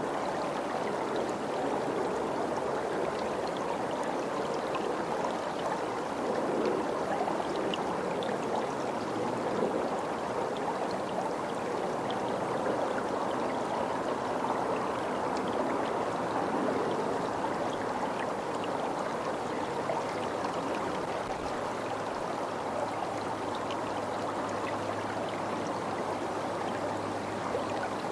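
Steady rush of flowing water, like a stream or small weir running without a break.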